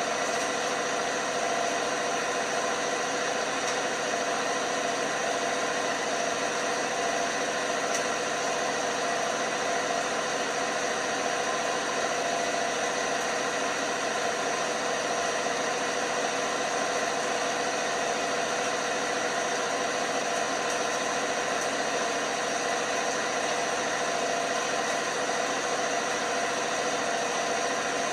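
LG washing machine running with a steady mechanical hum that does not change.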